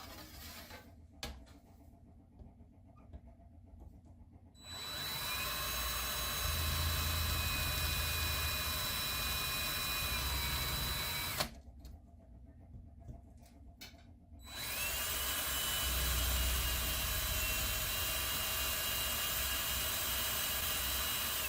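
Electric drill pre-drilling small divots in 1/8-inch aluminum angle. It runs twice for about seven seconds each time, and each time its whine rises as it speeds up, then holds steady.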